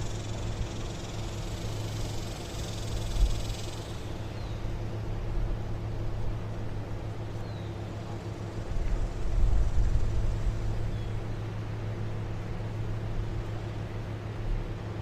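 Steady low mechanical hum, with uneven low rumbles swelling about two-thirds of the way through and a light hiss in the first few seconds.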